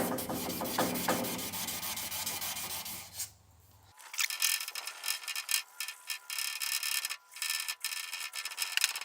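Fine 1200-grit sandpaper rubbed back and forth by hand over a stainless steel spatula blade, polishing out the scratches. The rubbing breaks off briefly about three seconds in, then resumes as sharper, quicker strokes.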